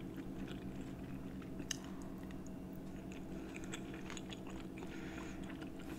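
A person chewing a mouthful of tender beef pepper steak with the mouth closed: faint, irregular soft mouth clicks over a low steady hum.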